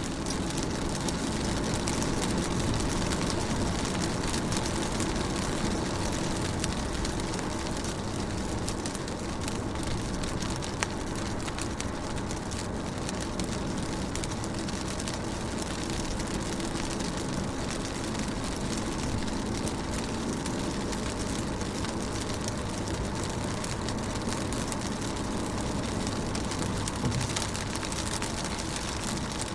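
Steady rain falling on a car, heard from inside: an even wash of rain noise with a low rumble, dotted with scattered ticks of single drops hitting the glass and body.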